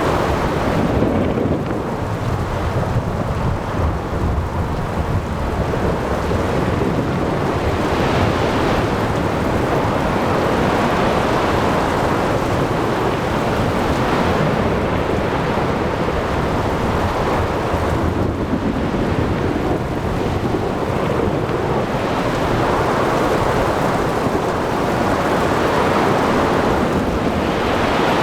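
Thunderstorm at sea: low rolling thunder over steady rain, wind and waves, which swell and ease every few seconds.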